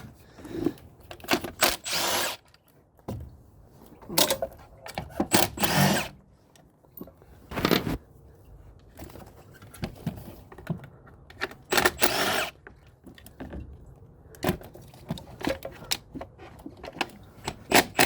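Hand and power tools at work on a truck engine: scattered metal clicks and clanks, with several short whirring bursts of a power tool driving bolts.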